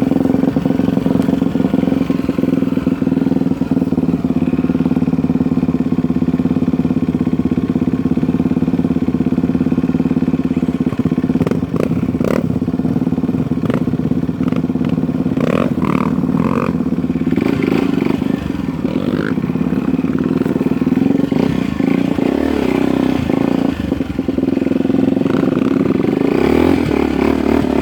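Motocross dirt bike engine running steadily.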